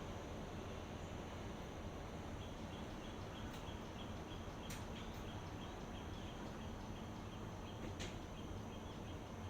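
Steady outdoor ambient hiss with faint, rapidly repeated high chirps and a few soft clicks.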